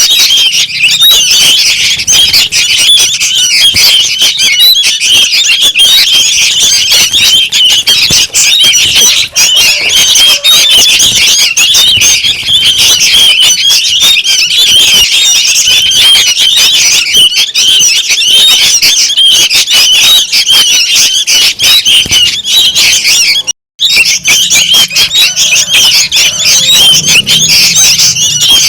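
Young sooty-headed bulbuls calling noisily: a dense, continuous chatter of short high chirps from several birds at once. The calls cut out for a split second about two-thirds of the way through.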